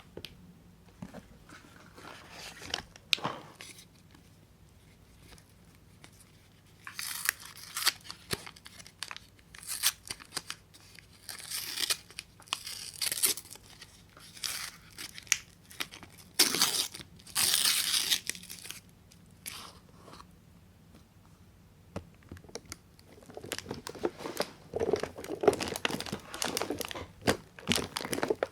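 Soap wrappers being torn open and crinkled by hand in irregular bursts, with short quiet gaps between.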